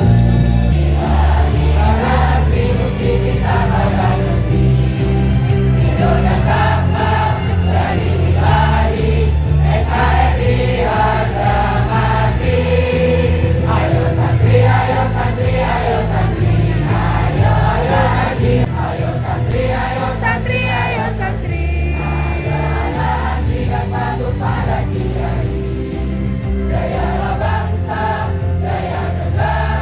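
Music with a group of voices singing together over a steady, bass-heavy accompaniment.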